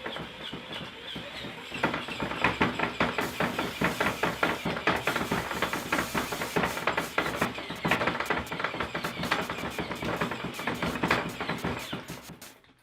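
Pop Cat meme popping sound effect, a rapid string of sharp mouth-pop clicks several times a second. It starts about two seconds in and cuts off just before the end.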